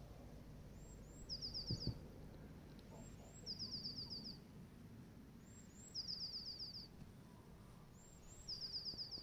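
A songbird singing the same short phrase four times, about every two and a half seconds: two thin, very high notes followed by a quick trill of about six slightly lower notes. Faint, over a soft low rumble.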